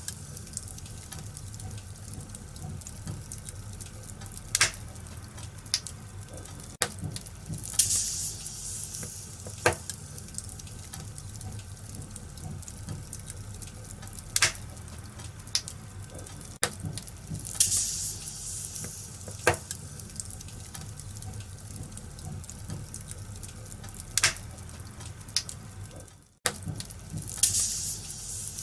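Wood fire in a fireplace crackling: sharp pops every second or few over a steady low rumble, with a few spells of hissing. The sound cuts out for an instant near the end.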